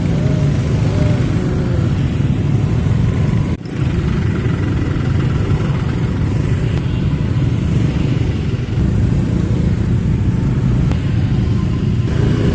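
Heavy road traffic: a truck's engine running close by with a steady low rumble, which drops out for a moment a few seconds in.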